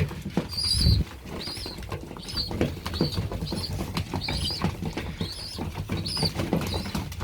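Young racing pigeons (squeakers) peeping, short high squeaks about twice a second, over a rapid patter of beaks pecking grain from the feeder.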